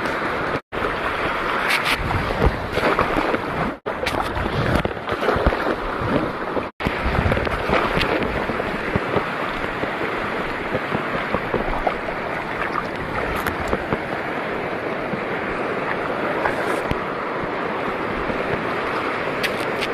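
Steady wash of sea water with wind on the microphone, gusting heavily through the first several seconds. The sound cuts out sharply three times in the first seven seconds.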